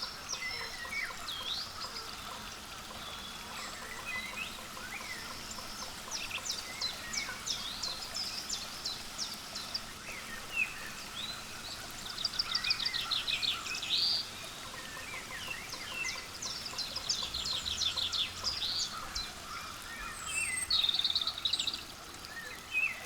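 Small songbirds chirping and calling over a steady background hiss, with several quick runs of rapid high notes.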